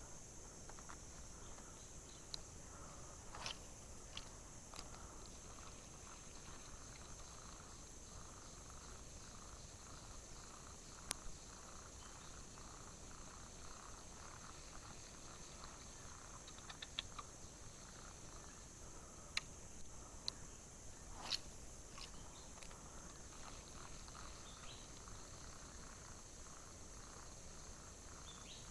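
Steady high-pitched chorus of crickets or similar insects, with a lower pulsing insect call under it, and a few scattered sharp clicks, the loudest about 11 seconds in.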